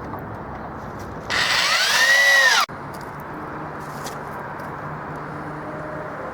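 Power drill driving an exterior screw into a wooden fence board: one burst of about a second and a half, the motor's pitch rising and then falling before it cuts off suddenly.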